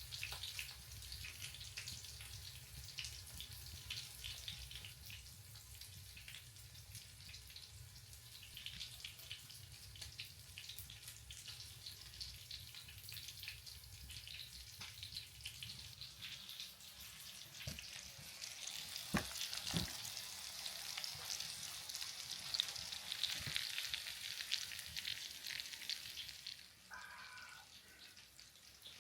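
Food sizzling and crackling in a hot frying pan, a steady hiss with a few sharp knocks about two-thirds of the way through. The sizzle dies down near the end.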